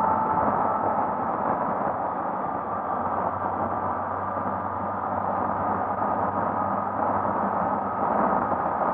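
Steady wind rush over the microphone with a Honda XRE 300's single-cylinder engine running at an even cruising speed underneath.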